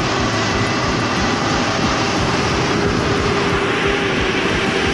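A heavy vehicle running: a steady engine drone with a constant whine over a rush of noise.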